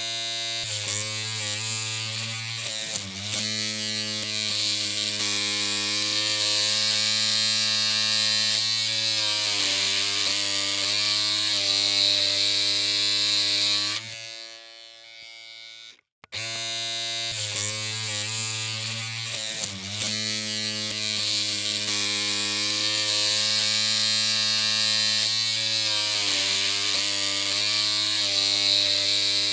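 Electric hair clippers humming steadily with a high buzz. They stop for about two seconds about halfway through, then start up again and keep running.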